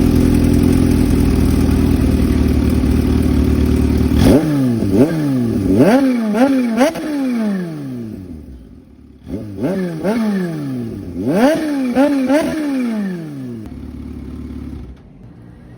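Kawasaki Z H2's supercharged 998 cc inline-four engine, running steadily, then revved in quick blips. There are two runs of several blips each, every rev rising sharply and dropping away slowly, before it settles back to idle near the end.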